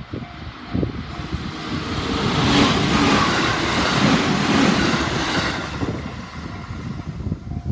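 Train passing over a level crossing on the JR Tōkaidō Main Line: a rushing rumble of wheels on rail that swells to its loudest about three seconds in and fades away over the next few seconds.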